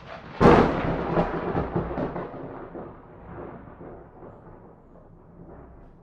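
A thunderclap: a sharp, loud crack about half a second in, followed by a rolling rumble that fades away over several seconds.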